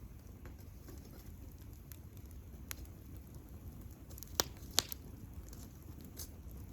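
Wood campfire crackling, with scattered small clicks and two sharper pops close together about two-thirds of the way through.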